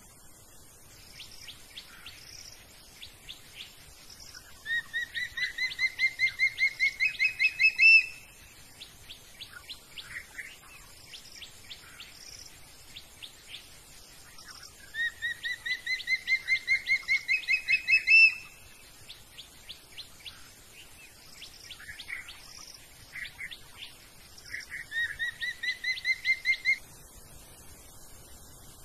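A bird singing: three times, a fast run of repeated notes that climbs in pitch and grows louder over about three seconds, with other, higher chirps scattered in between.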